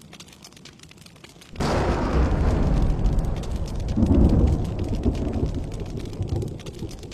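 A thunderclap over steady rain: a sudden crack about a second and a half in rolls into a deep rumble that swells again midway and fades away toward the end.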